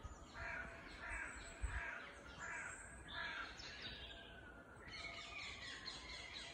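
Woodland birds calling: a run of about six short, rough calls in the first three and a half seconds, then fainter high chirping.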